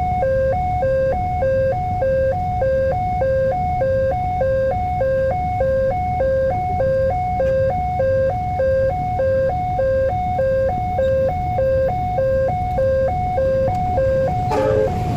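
Railway level-crossing warning alarm sounding: an electronic two-tone signal alternating evenly between a lower and a higher pitch, warning that a train is approaching and the barriers are closing, over a steady low rumble.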